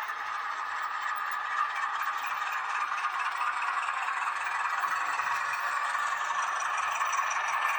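H0-scale model diesel locomotive, a Renfe Alco 313, running along the layout track: a steady rattling run of its motor and wheels on the rails that grows a little louder.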